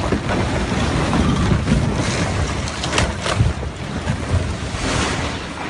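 Wind buffeting the microphone over a loud, steady rushing roar, with a few sharp cracks about three seconds in.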